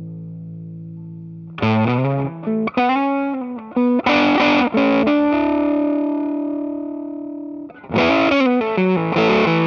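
Electric guitar played through an Earthquaker Devices Sound Shank germanium fuzz pedal, giving a distorted tone. A held note dies away, then comes a quick phrase of picked notes, another long sustained note fading out, and more picked notes near the end.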